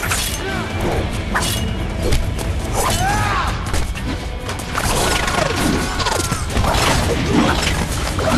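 Fight-scene soundtrack: music mixed with repeated hits, crashes and metallic clashes, with short arching swishes throughout.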